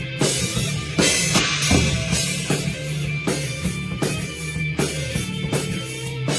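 Rock band rehearsing: a drum kit played close-up, with a steady beat of kick and snare hits and cymbal wash, over bass and electric guitar.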